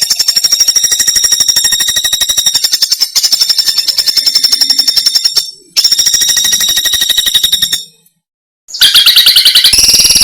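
Songbird's rapid, high-pitched buzzing trill, repeated in long phrases with a short break about halfway. After about a second of silence a new trill at a different pitch starts near the end.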